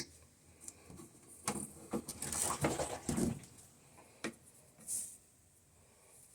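Irregular clicking, rattling and knocking of small hard objects being handled, densest from about one and a half to three and a half seconds in, with a short brushing noise near the end.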